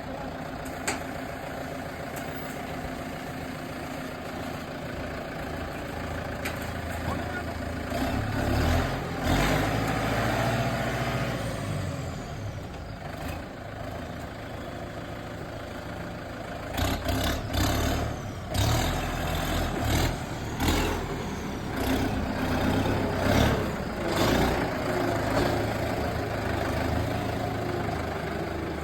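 Kubota M9540 tractor's diesel engine running at a steady idle, growing louder for a few seconds about eight seconds in and again through a longer stretch from about seventeen seconds, where the loudness rises and falls several times as the engine is revved or worked.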